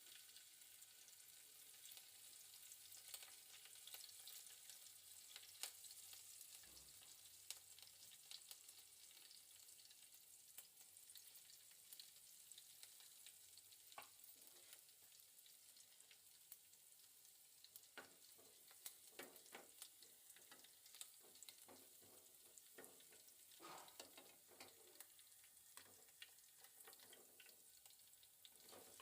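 Faint, steady sizzling and crackling of food cooking in a pan on the stove, with scattered clicks and knocks, more of them in the second half.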